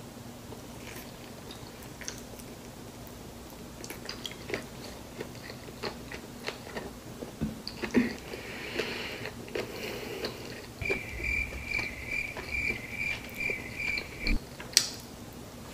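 Close-miked chewing and mouth sounds of eating a shrimp har gow dumpling and garlic noodles: soft wet clicks and smacks, getting busier after about four seconds. Near the end, a high tone pulsing about twice a second runs for a few seconds and stops.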